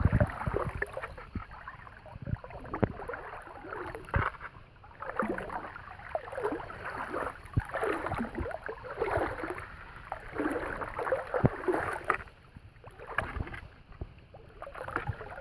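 Water sloshing and splashing around a person's legs as he wades step by step through a thigh-deep river crossing, in uneven surges that ease off briefly near the end.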